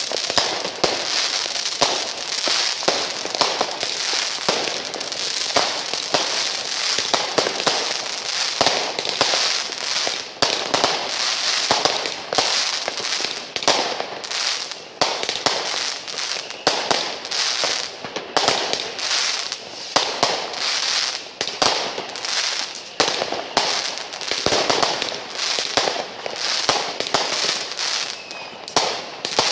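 New Year's Eve fireworks and firecrackers going off all around without a break: a dense, continuous crackle with many sharp bangs layered over it.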